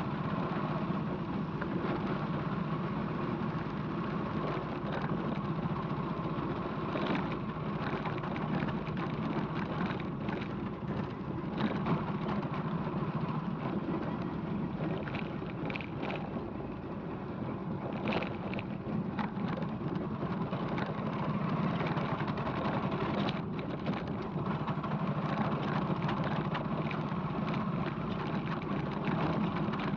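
Motorcycle engine running steadily during a ride, under a constant rushing noise with a few faint ticks.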